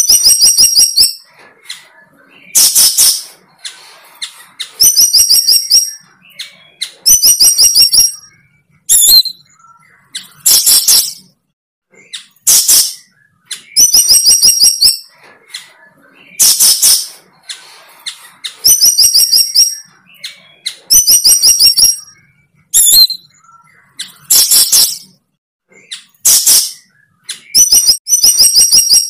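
A bird singing the same short phrase over and over, about once every two seconds. Each phrase is a rapid run of clicking notes with high pitched tones, and it alternates with loud, hissy, rasping calls.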